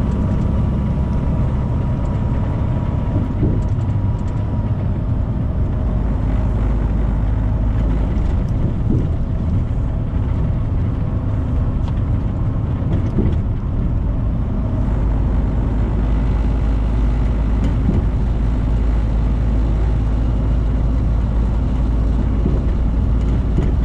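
2018 Freightliner semi truck cruising on the highway, heard from inside the cab: a steady low engine drone with road noise, deepening a little partway through.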